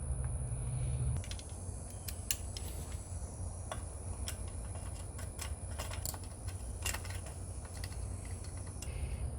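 A run of irregular light clicks and ticks, starting about a second in, over a low rumble and a steady high-pitched tone.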